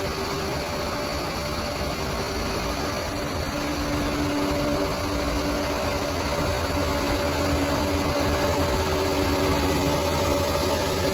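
Bulldozer's diesel engine running steadily, its pitch shifting slightly up and down.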